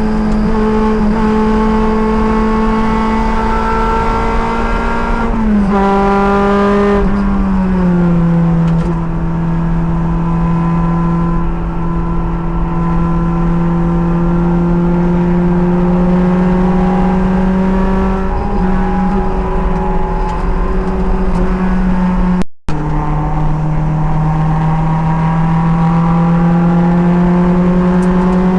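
Race car engine under load, heard from the driver's helmet with wind noise. The pitch holds steady, drops in steps a few seconds in, then climbs slowly; about 22 seconds in the sound cuts out for a moment and comes back lower, climbing again.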